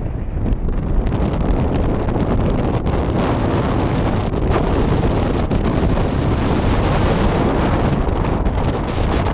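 Strong wind buffeting the microphone: a loud, steady rumble and rush with no bell strike heard.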